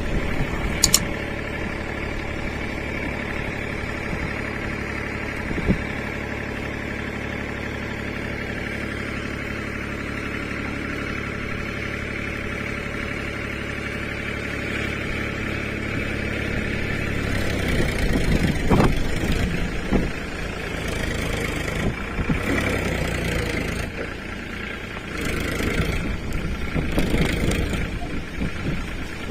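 Powertrac 434 tractor's diesel engine running steadily at idle, then louder and more uneven from a little past halfway, with a few knocks.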